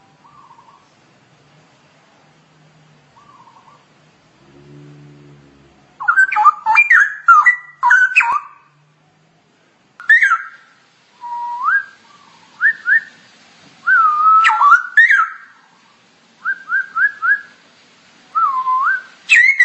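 Straw-headed bulbul (cucak rowo) singing: loud, liquid whistled phrases with quick pitch glides, starting after about six quiet seconds and coming in bursts of a second or two with short pauses between them.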